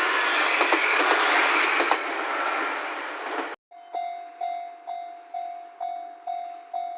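A train passing over a Japanese level crossing: loud, steady rushing noise with scattered wheel clicks, which cuts off suddenly about halfway through. It is followed by the crossing's warning bell ringing about twice a second, each ring fading before the next.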